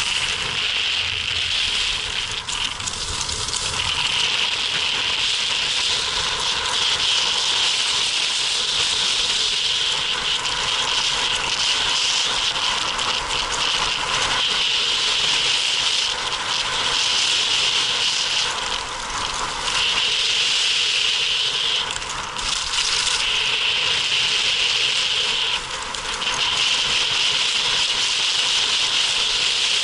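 Skis sliding and scraping on a snow piste during a fast descent, a steady hiss broken by brief dips a few times.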